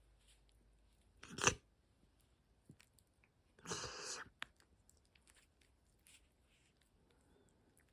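Quiet crunching and rustling noises: two short bursts, one about a second in and a longer one about four seconds in, among scattered small clicks.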